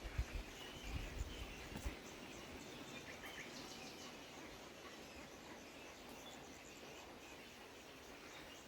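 Faint, steady rush of a running stream with small birds chirping over it, and a few low thumps in the first two seconds.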